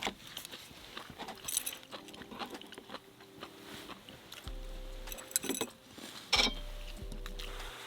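Eating at a meal: a few sharp clinks of utensils against dishes, with chewing between them.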